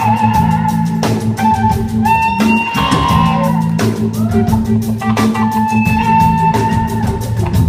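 Live rock band playing an instrumental passage: a sustained electric guitar lead with notes that glide in pitch, over a steady drum-kit beat and bass.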